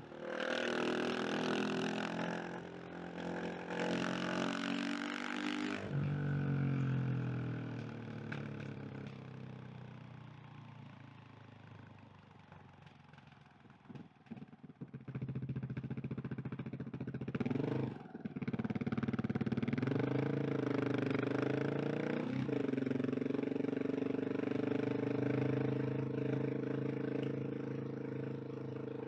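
A KTM 690 SMC R's single-cylinder four-stroke engine pulling hard, then winding down off the throttle to a low murmur with a few irregular crackles. It picks up again with rising revs and a brief break for a gear change about 18 seconds in, then settles into a steady run.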